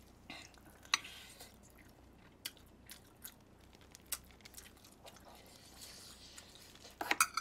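Quiet close-up eating sounds: a person biting and chewing chicken feet braised in spicy broth. A few sharp clicks come now and then, and a quick run of them near the end.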